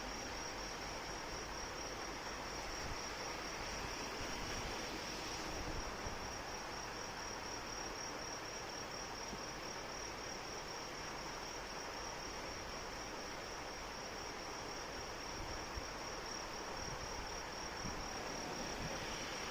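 Steady rain falling, with crickets chirping in a continuous high-pitched, rapidly pulsing trill over it.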